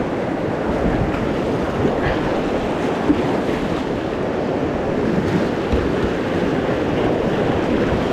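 Rushing creek rapids heard up close, a steady roar of moving water around the kayak, with some wind on the microphone.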